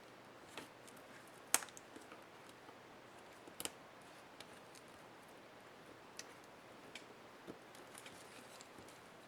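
Sparse small clicks and taps of laptop parts being handled and pried apart by hand, the two loudest about one and a half and three and a half seconds in.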